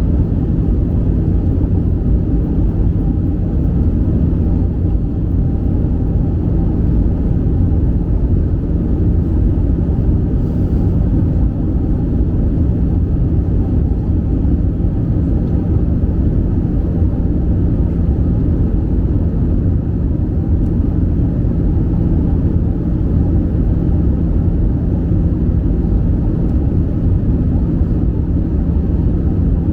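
Steady cabin noise of an Airbus A320 in flight: a deep, even rumble of engines and airflow with a steady low hum through it.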